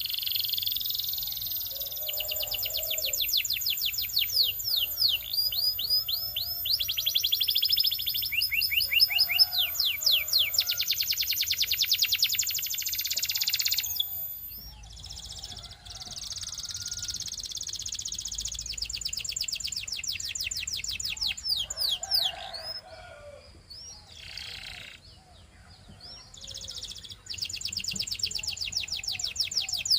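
Belgian canary singing: long phrases of fast, high trills and rolls of rapidly repeated notes, changing speed from phrase to phrase. The song breaks off briefly a little past two-thirds of the way in, then starts again.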